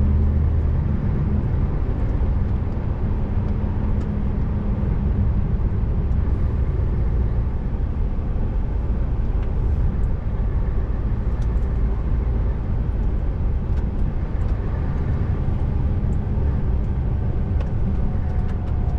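Scania R590 tractor unit's 16-litre V8 diesel pulling steadily on the road, a continuous low drone mixed with tyre and road noise.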